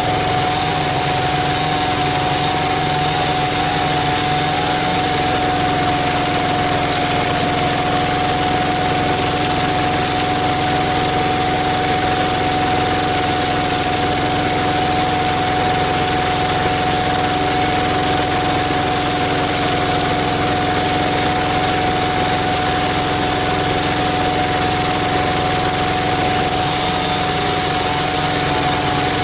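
Walk-behind power tiller engine running steadily, driving a screw cone log splitter, with a steady whine over the engine.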